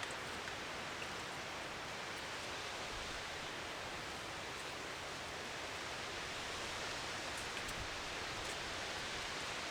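Steady, even rushing noise with a few faint ticks scattered through it.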